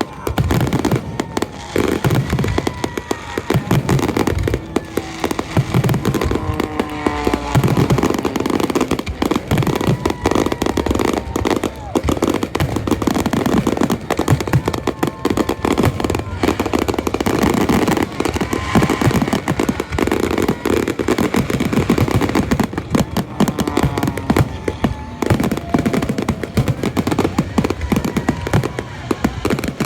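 Fireworks finale: a dense, unbroken barrage of bangs and crackling.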